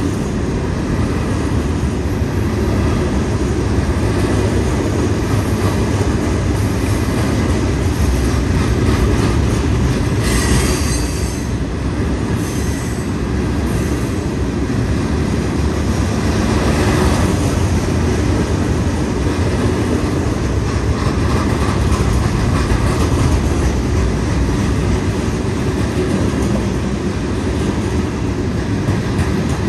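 Stone train of open-top hopper cars rolling past: a steady rumble and clatter of steel wheels on rail. Brief wheel squeals come about ten seconds in and again a few seconds later.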